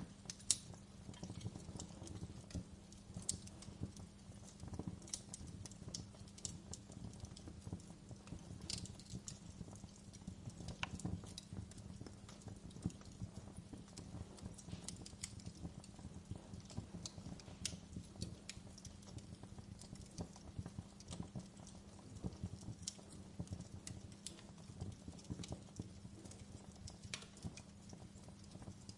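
Wood fire in a fireplace crackling: frequent irregular sharp pops and snaps over a steady low hum.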